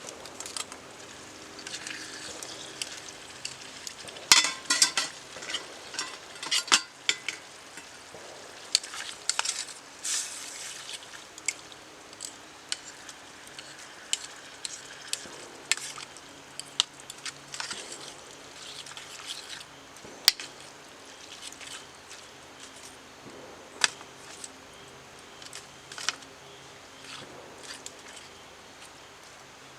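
A utensil stirring and scraping food in a pot, with irregular clinks and knocks against the cookware over a faint sizzle. The clinks come thickest about four to ten seconds in.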